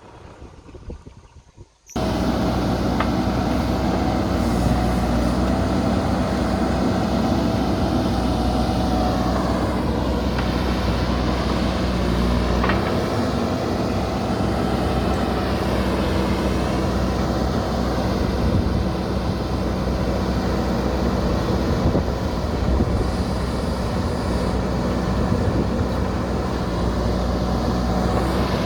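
Diesel engine of a JCB earthmoving machine running steadily at close range, cutting in suddenly about two seconds in after a quieter, windy start.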